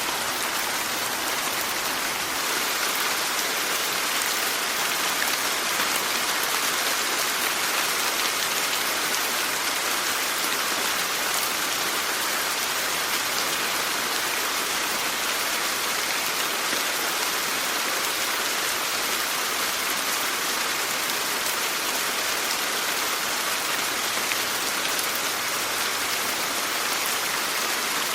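Steady rainfall, an even hiss of many drops with no breaks.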